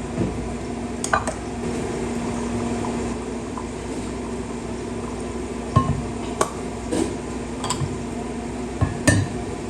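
Dishes and utensils clinking and knocking about seven times, two in quick succession near the end, over a steady low hum.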